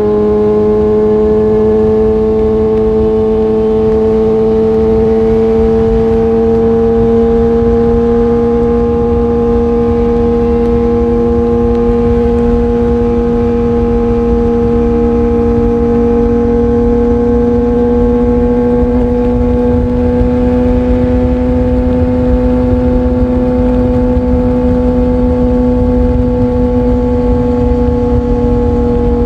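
Motorcycle engine running at a steady, fairly high engine speed, its pitch creeping slowly upward, over a low rumble.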